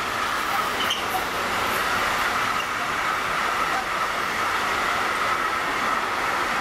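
Container wagons of a freight train rolling past at speed: a steady rush of steel wheels on rail with a high ringing note held through it.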